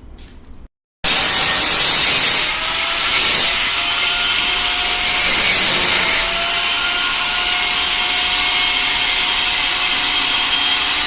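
Angle grinder grinding steel: a loud, steady abrasive hiss with a faint wavering motor tone, starting abruptly about a second in and cutting off abruptly at the end.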